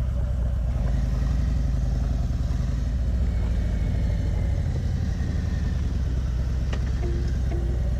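Harley-Davidson Electra Glide Ultra Limited's V-twin engine running steadily as the motorcycle is ridden.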